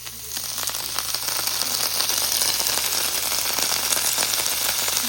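Chopped cabbage frying in a hot frying pan. A little water goes in, and over the first second or two the sizzle swells into a loud, steady hiss with crackling.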